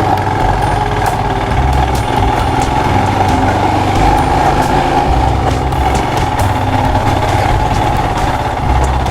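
Royal Enfield Himalayan's single-cylinder engine running steadily as the motorcycle rides slowly along a rough dirt trail, with scattered light clicks.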